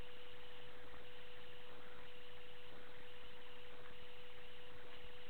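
A steady, single-pitched electrical hum over a faint even hiss, unchanging throughout.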